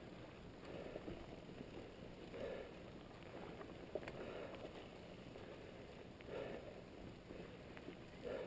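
Trek Fuel EX8 mountain bike being ridden: a steady rumble of tyres and drivetrain, with soft swells every second or two and a sharp click about four seconds in.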